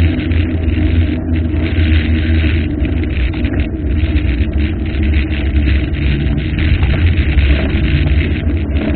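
Waterfall's rushing water, a steady loud roar with a deep rumble.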